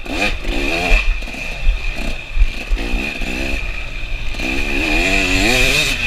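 KTM 300 two-stroke dirt bike engine revving up and down under repeated blips of the throttle, with a steady high whine behind it.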